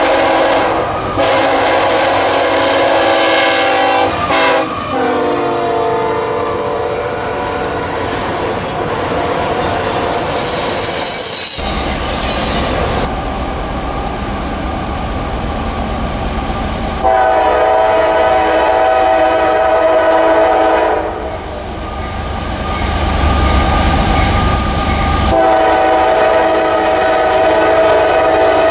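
Locomotive air horns sounding chords as trains pass, with the pitch of one horn dropping as it goes by, over the clatter of wheels on the rails. The sound changes abruptly a few times from one horn sequence to another.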